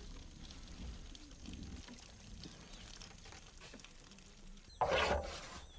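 Manioc juice trickling and pouring out of a woven palm-leaf basket as the ground root is squeezed, with a louder gush of liquid about five seconds in.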